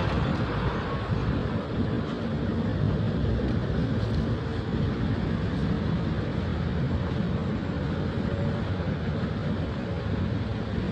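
Steady low rumble of motor vehicles and road noise, with no clear single event standing out.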